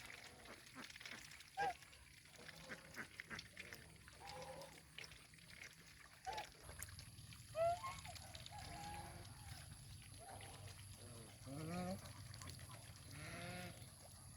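Farm animals calling: a string of short calls that rise and fall in pitch, some overlapping, with a low steady hum starting about halfway through.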